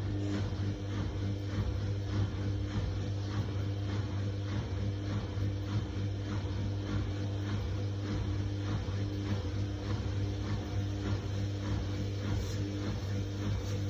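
Samsung WF1700WRW front-loading washing machine running its daily wash programme: a steady motor hum with a rapid run of soft repeated swishes from the tumbling drum.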